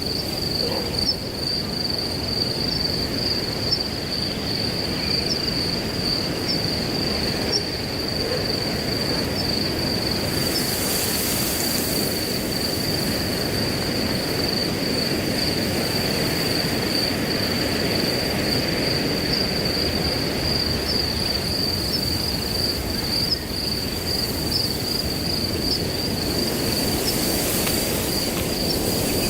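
Crickets trilling in one steady high note over wind blowing through grass, with gusts of rustling swelling up about ten seconds in and again near the end.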